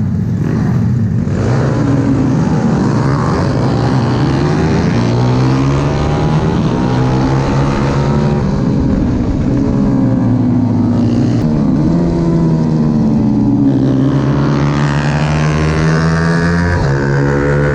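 Pit bike engine running hard on track, its revs climbing and dropping again and again as it works through the gears and eases off for corners.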